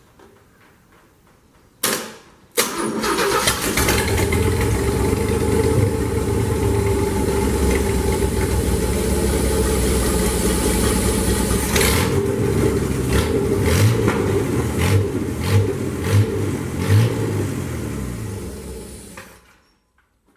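A pickup truck engine sitting on the ground cranks briefly about two seconds in, fires right up and runs steadily, with a few short blips near the end. It then dies away as it is killed by pulling the ignition wire. It sounds healthy: it starts at once and runs smoothly.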